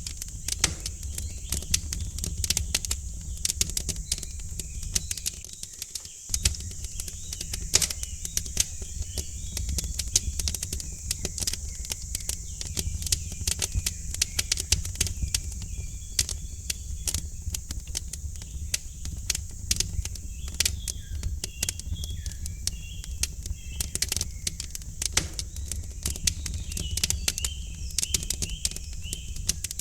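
Wood fire crackling, with irregular sharp pops and snaps over a low steady rumble. Small birds chirp faintly in the background, more often in the second half.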